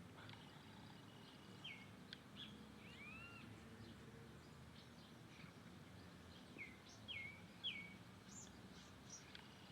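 Faint bird calls: scattered short chirps, several sweeping down in pitch, a few clustered near the middle and end, over a steady low background hum.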